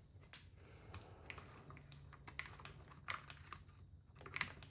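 Faint, irregular clicks and light taps of small RC car parts being handled and fitted together, with slightly sharper clicks near the end.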